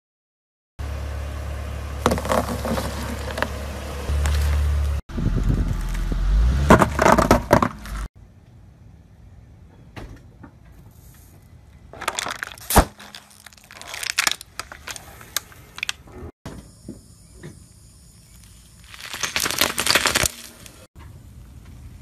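A run of separate short clips of a car tyre rolling over and crushing objects: crackling, cracking and crunching, with a low steady rumble under the first part. About halfway through, a plastic water bottle is flattened under the tyre with one sharp crack, and near the end a dense burst of crunching.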